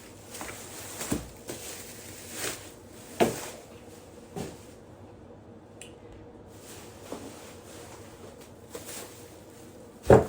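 Grocery items being handled and set down on a hard surface: a handful of short knocks and thumps, the loudest one near the end.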